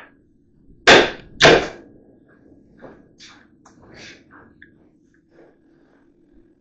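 Two loud knocks about a second in, half a second apart, followed by a few softer scrapes and clatters.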